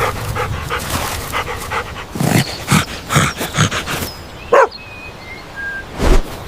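A dog barking: a quick run of short sounds, then about four loud barks in the middle, followed by a short rising whine.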